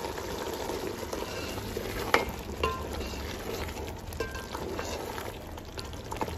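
Beef and tomato-chilli masala frying and bubbling in a metal pot while a wooden spatula stirs and scrapes through it, with a couple of sharp clacks about two seconds in.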